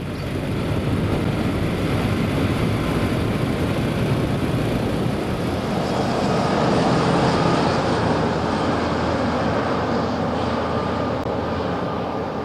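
Motorcycle riding at road speed: a steady roar of wind and tyre noise over the engine's drone.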